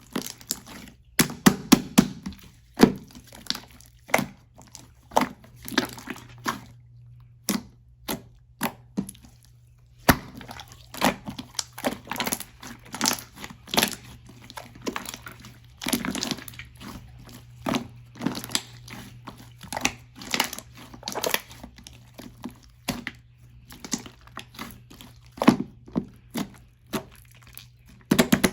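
Clear slime being squeezed and worked by hand, giving an irregular string of sharp clicks and pops, several a second, with a couple of short pauses.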